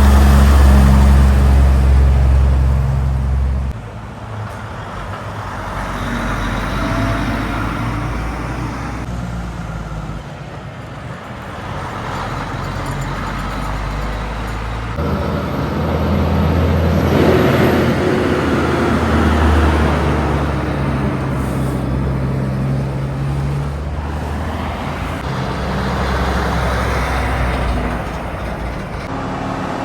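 Heavy trucks and other road traffic passing on a highway, one vehicle after another, with the low drone of diesel engines and tyre noise. It is loud at first, drops away about four seconds in, and swells again past the midpoint as more vehicles go by.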